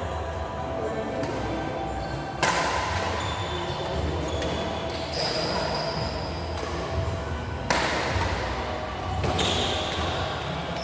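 Echoing sports-hall ambience with a steady low rumble and background murmur. Two sharp hits, about two and a half seconds in and near eight seconds, are each followed by a brief burst of crowd noise.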